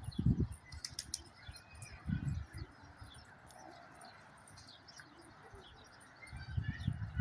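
Domestic pigeons, heard as three short low bursts about two and four seconds apart, with faint high chirping throughout.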